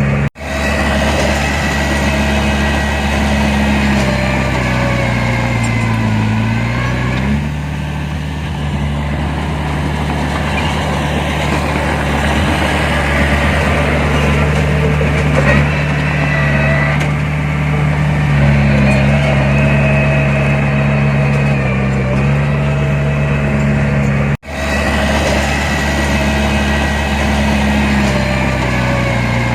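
Heavy diesel engine of earthmoving machinery running steadily, its pitch dropping and rising a few times as the throttle changes. The sound cuts out briefly twice.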